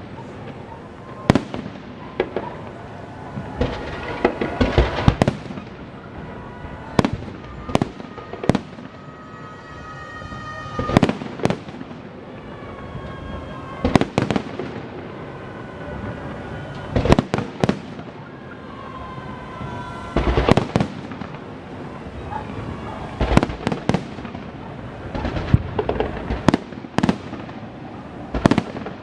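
Fireworks display: aerial shells bursting in sharp bangs, often two or three in quick succession, every second or two.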